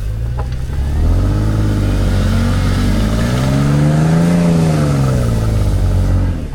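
A vehicle's engine revving under load, its pitch climbing for about three seconds to a peak about four seconds in, then easing back down.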